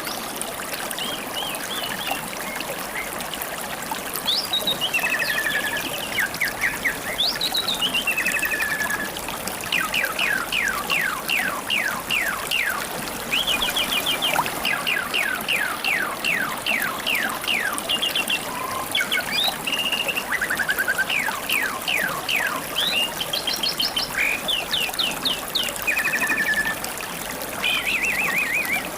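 River water trickling and babbling steadily, with wild songbirds singing over it: short trills and whistled phrases, and quick runs of falling notes several a second, nearly continuous from about four seconds in.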